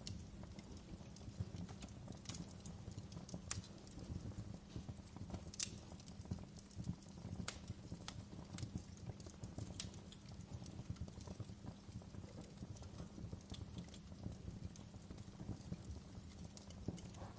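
Fireplace fire crackling, with irregular sharp pops and snaps over a steady low hum.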